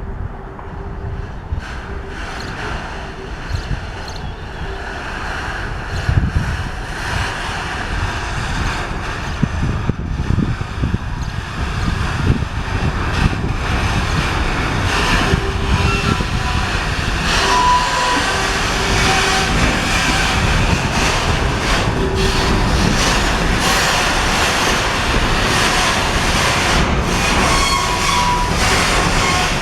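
A container train being shunted by a ChME3 diesel locomotive, the wagons rolling and clattering over the rails. The rumble grows louder through the first half, with a few brief high wheel squeals around the middle and near the end.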